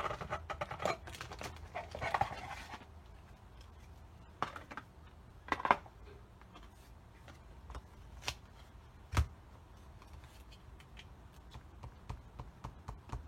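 Paper and craft materials being handled on a tabletop: a scratchy paper rustle for the first few seconds, then scattered small taps and clicks, the sharpest about five and a half and nine seconds in.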